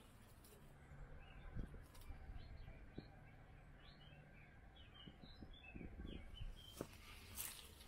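Faint small-bird chirps, short high notes repeated in scattered runs and busiest past the middle, over a low steady background hum. A few soft low thuds sound now and then.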